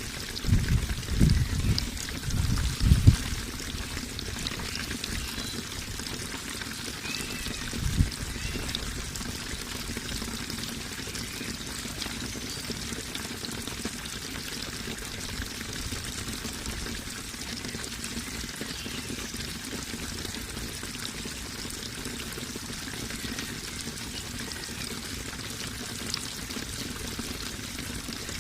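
Running water pouring and trickling in a steady flow, with a few low splashing thuds in the first three seconds and once more about eight seconds in.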